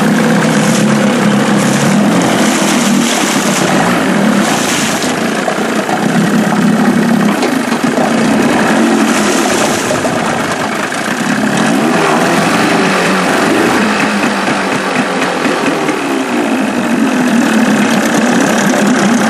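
Johnson 25 HP two-stroke tiller outboard motor running, its speed rising and falling a few times.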